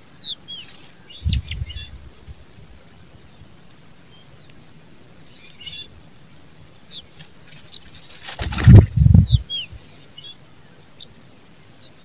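Pipit nestlings begging at the nest with rapid, high-pitched short cheeps, several a second, as an adult pipit feeds them, with a few short falling chirps mixed in. A low rustling thump about a second in, and a louder one about three-quarters of the way through, the loudest sound here.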